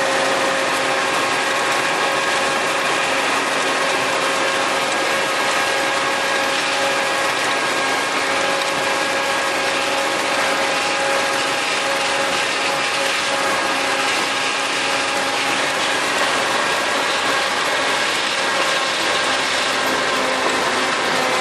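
Tractor running with a PTO-driven rotary tiller working, giving one steady, unbroken sound of engine and geared machinery.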